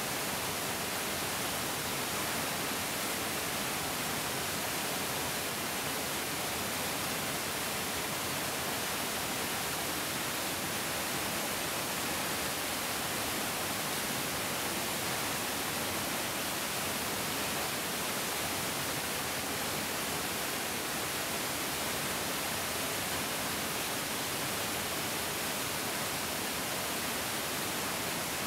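Mountain stream rushing over rocks: a steady, even hiss of flowing water with no changes.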